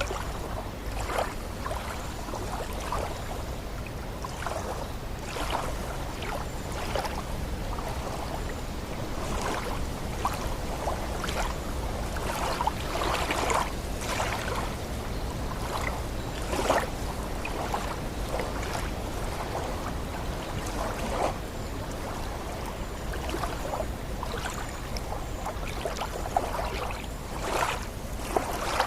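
Lake water lapping and splashing in irregular rushes, with a steady low wind rumble on the microphone.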